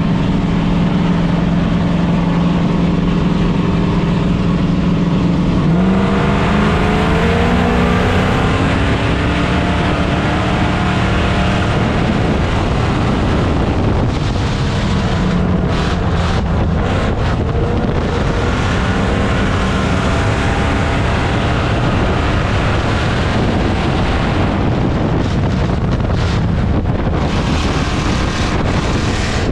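Dirt-track race car engines running: a steady engine note for the first few seconds, then revving up about six seconds in and rising and falling with the throttle.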